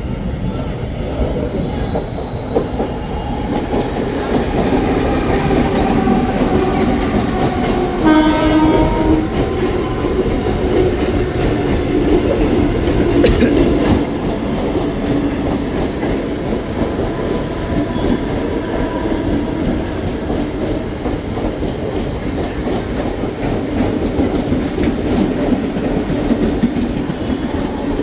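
A train running on the tracks close by, a continuous loud rumble and clatter. Its horn sounds once for about a second and a half, about eight seconds in.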